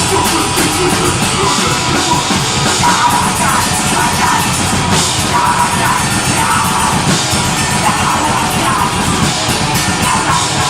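Deathgrind band playing live: distorted guitars and fast drums with harsh yelled vocals over them.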